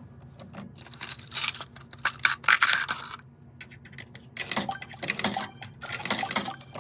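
Toy claw machine's mechanism clicking and rattling in irregular bursts, loudest a little before the middle, with a short lull before the clicking starts again.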